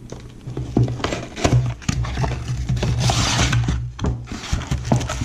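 Hands opening a trading-card hobby box: scraping and rubbing of cardboard and plastic wrap with scattered clicks, and a stretch of crinkling about three seconds in, over a steady low hum.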